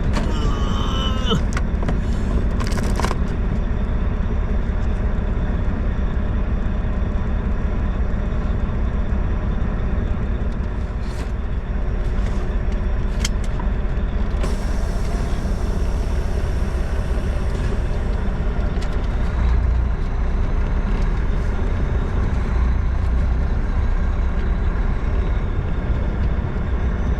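Truck engine running steadily, a low continuous engine sound, with a few short clicks near the start and a hiss lasting a few seconds about halfway through.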